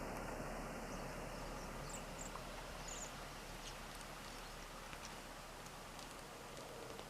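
A few short, faint high chirps from small birds in winter over a steady background hiss, with scattered light ticks.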